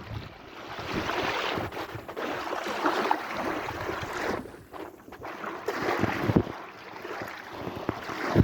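Sea waves washing in and drawing back: a rushing hiss that swells and fades several times.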